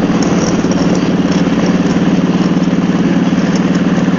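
Harley-Davidson Road Glide's V-twin engine running steadily under way at road speed, a low, even, fast-pulsing drone.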